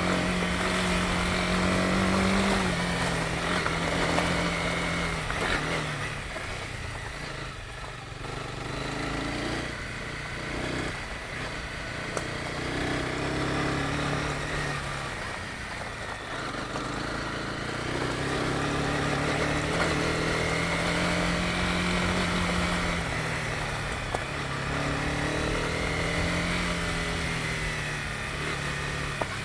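Honda CB250R's single-cylinder engine running under way, its note rising and falling with the throttle. It eases off and goes quieter for several seconds in the middle, then pulls again.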